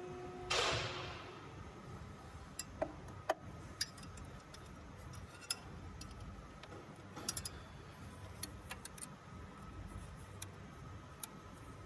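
A short hissing burst about half a second in, then scattered light metallic clicks and clinks of tools and parts being handled during the fan clutch job.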